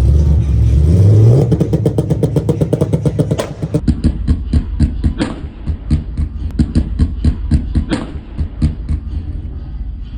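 A sports car engine revving up, then a rapid string of exhaust cracks that slows into irregular pops and fades.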